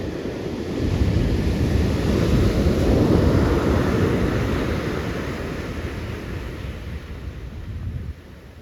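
Ocean surf: a breaking wave's rush of whitewater that swells about a second in, then fades over several seconds and drops off sharply near the end. Wind buffets the microphone throughout.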